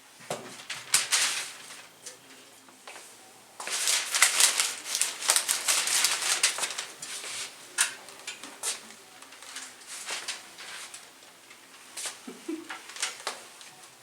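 Handling noises: bursts of scratchy rustling with sharp clicks, heaviest through the middle. A short dove-like coo is heard about twelve seconds in.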